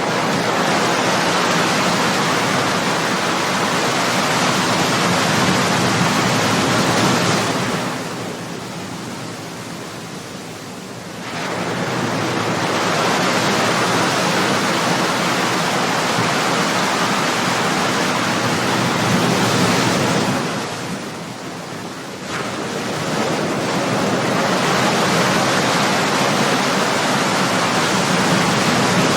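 Ocean waves breaking and washing up on a shore, a continuous hiss of surf that swells and ebbs in long surges, with lulls after about eight and twenty seconds.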